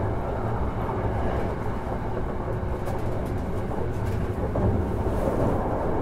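Hankyu 1000 series electric train, driven by permanent-magnet synchronous motors, running between stations, heard from inside a passenger car. A steady low rumble of wheels and running gear carries a faint steady tone that fades out about halfway.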